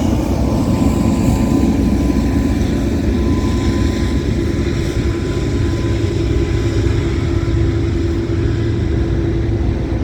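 A CN freight train rolling past close by: a steady, loud rumble of wheels on the rails, with a faint steady whine that grows a little a few seconds in.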